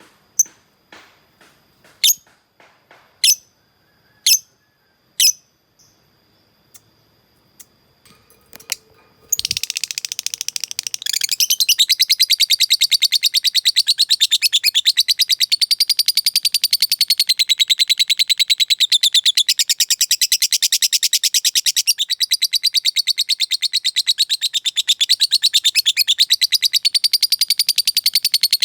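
Lovebird giving a few separate sharp chirps, then about nine seconds in breaking into its 'ngekek': a long, unbroken, very fast chattering trill. This long trill is the call used to provoke rival lovebirds.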